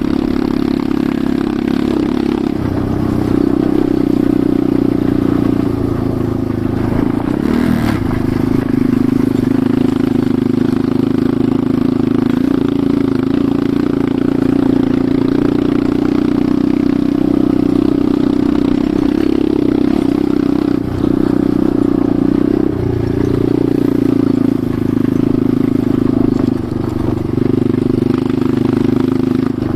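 Enduro motorcycle engine running at fairly steady revs while riding, with a few brief drops and wobbles in pitch as the throttle changes.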